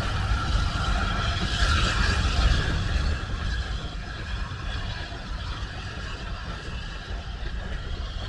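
Steady low rumble of a vehicle running, easing off about three seconds in.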